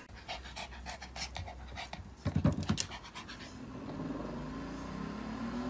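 A dog panting in quick breaths, about four or five a second, giving way after about three seconds to a fainter steady hum.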